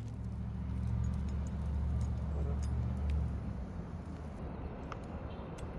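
Low, steady engine rumble of a vehicle, loudest for about the first three seconds and then easing off, with a few faint taps.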